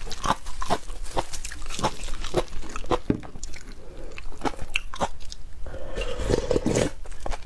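Person eating seafood with crunching and chewing: many sharp, crisp bites, several a second, with a denser stretch of chewing about six seconds in.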